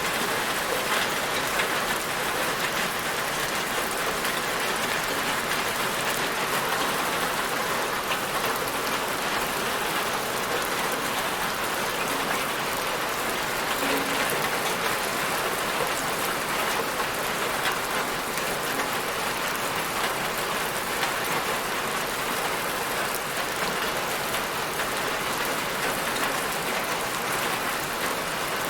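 Steady rain falling, an even hiss with fine scattered patter of drops, unchanging in level.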